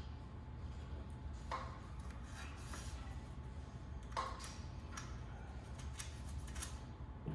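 A handful of scattered light clicks and knocks, like parts and tools being handled, over a steady low hum.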